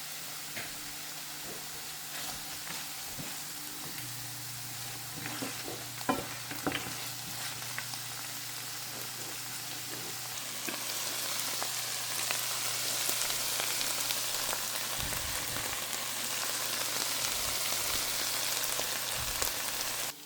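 Oyster mushrooms and cashew nuts sizzling in a frying pan as they are stir-fried, with a few clicks of the utensil against the pan about a third of the way in. The sizzle grows louder about halfway through, over a faint steady low hum.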